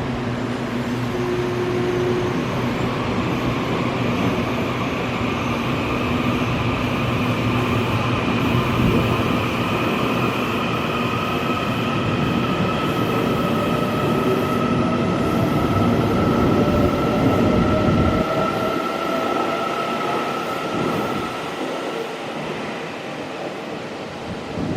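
EMU800 electric multiple unit pulling out of a station, the whine of its traction motors rising steadily in pitch as it gathers speed over the rumble of its wheels. The rumble drops away and the sound fades in the last few seconds as the train moves off.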